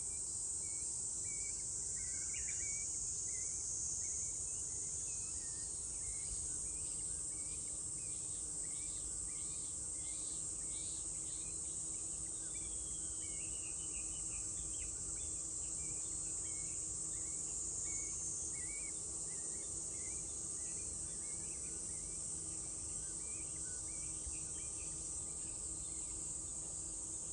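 Summer cicadas droning steadily at a high pitch, with a bird chirping short notes over and over.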